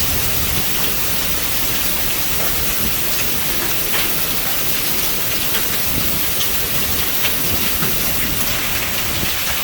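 Heavy storm rain falling steadily, a dense even hiss with scattered sharp taps of drops or stones striking.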